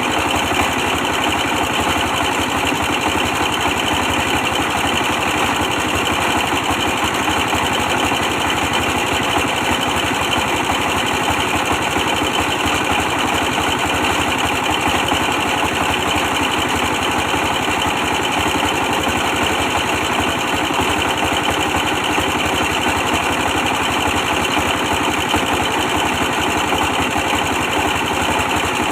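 24 hp stationary diesel engine running steadily with a fast, even beat.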